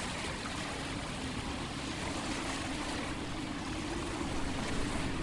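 Steady wind rushing over the microphone, an even noise without sudden events.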